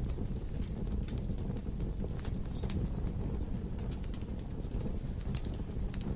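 Logs burning in a fireplace: irregular sharp crackles and pops over a steady low rumble of the flames.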